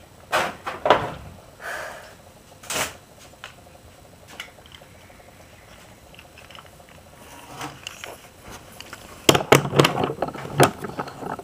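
Scattered sharp clicks and knocks, a few near the start and a dense clatter of them near the end.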